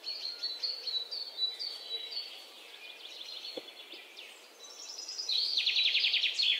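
Small birds chirping: repeated short falling chirps, with a fast trill near the end. A faint click about halfway through.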